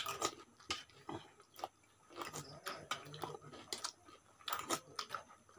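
People chewing roti and chicken curry, with many short, irregular mouth clicks and smacks.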